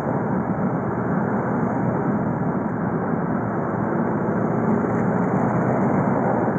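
Four-cylinder 2.0 TDI diesel of a stock Volkswagen Golf Mk5 (BKD engine) running steadily, with no revving or change in pitch.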